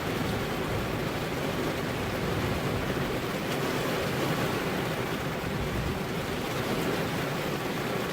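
Steady rain falling on a car's windows, an even wash of noise with faint scattered drop ticks.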